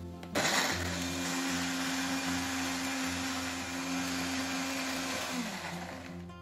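Small electric blender grinding shallots, garlic and chillies with cooking oil into a spice paste. The motor starts abruptly just after the start and runs with a steady whine, then winds down about five seconds in.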